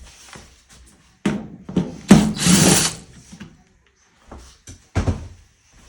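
Power drill-driver running for about a second and a half, backing out a screw, followed by a couple of short knocks.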